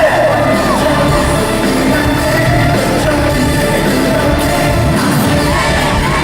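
Live pop concert music in a large hall: a singer's voice over a loud band.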